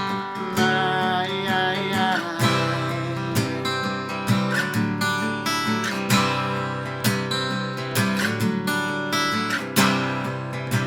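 Acoustic guitar strumming chords: an instrumental passage between the verses of a gentle singer-songwriter ballad.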